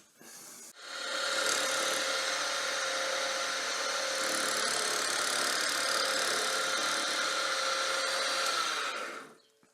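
Small wood lathe running while the ball-turning jig's cutter takes a steady cut in the spinning wood. The noise starts about a second in and stops shortly before the end.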